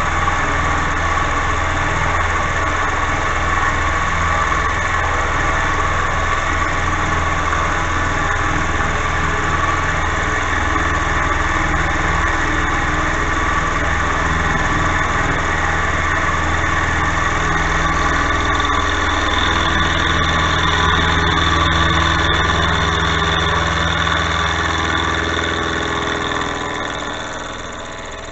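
Milling machine running, its cutter feeding through a steel block with a steady motor hum and cutting noise. Near the end the sound drops off as the cutter breaks through the steel.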